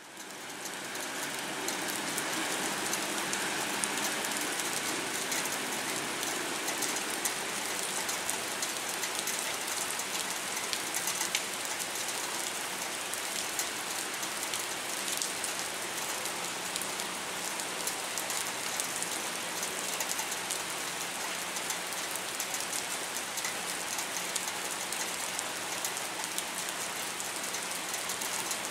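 Steady rain falling on a wet concrete pier: a dense, even hiss of drops with a faint steady low hum underneath. It fades in over the first second or two.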